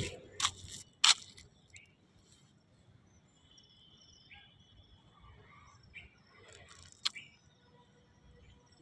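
Faint birds chirping over quiet outdoor ambience, broken by a few sharp clicks, the loudest about a second in and another about seven seconds in.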